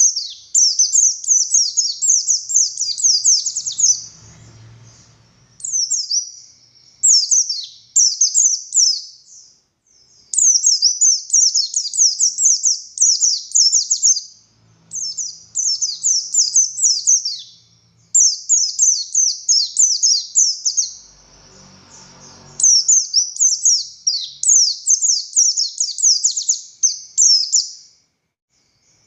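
A pleci buxtoni white-eye singing: loud, fast runs of high, sweeping notes in phrases of one to four seconds, broken by short pauses.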